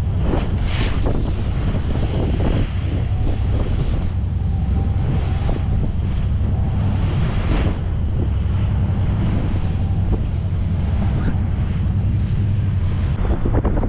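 Wind buffeting the microphone over a steady low rumble, with the sea washing around a boat on open water.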